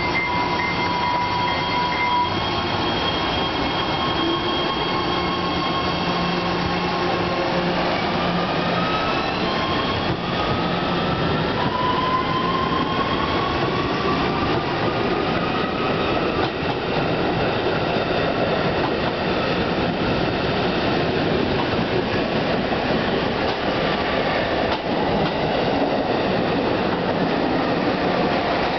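AMT MR-90 electric multiple-unit commuter train pulling away and passing close by, a steady loud rush of wheels and cars on the rails. A steady high tone stops about two seconds in, and whining tones rise in pitch partway through as the train picks up speed.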